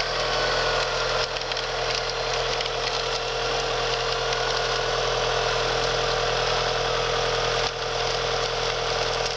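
Vehicle engine running steadily, with a faint whine that drifts slightly in pitch.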